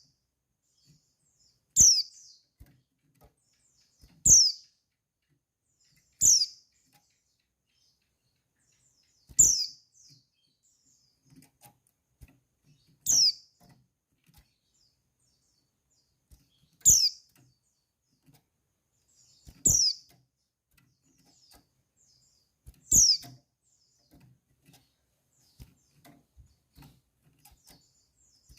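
Female white-eye (pleci) giving a short, high call that falls in pitch, repeated nine times at gaps of two to four seconds. It is a calling note used to rouse male white-eyes to sing.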